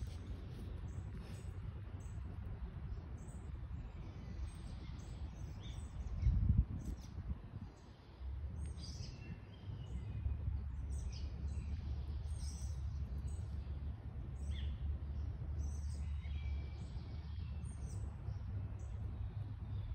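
Small birds chirping in short calls over a steady low outdoor rumble, with one loud thump about six seconds in.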